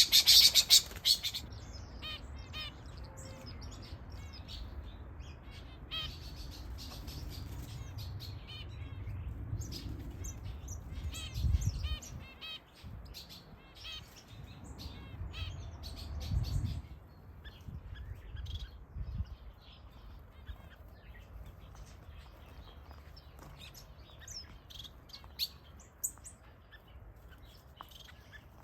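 A mixed flock of small aviary birds, mostly finches, chirping and calling continuously, with a loud burst of calls in the first second. Two short low rumbles come a little before and after the middle.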